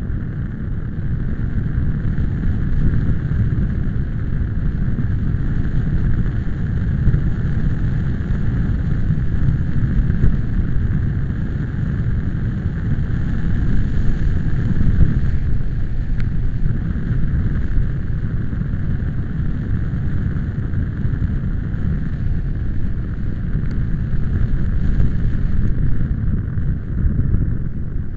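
Strong wind gusting and buffeting the microphone: a continuous deep rumble that swells and eases with the gusts.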